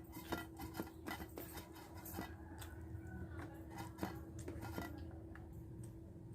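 Close-up mukbang eating sounds: chewing and lip smacking, with irregular wet clicks several times a second over a steady low hum.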